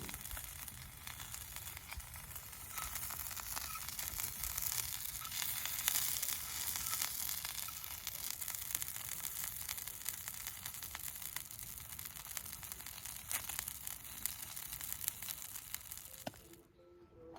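A steady sizzling crackle, a dense hiss full of fine pops, that cuts off suddenly near the end.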